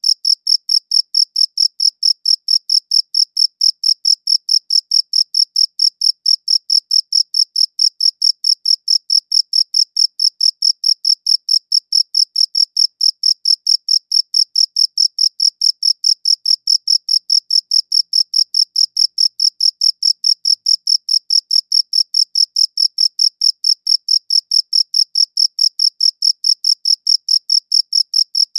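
Cricket chirping steadily, a high-pitched chirp repeated at an even rate of about four to five chirps a second.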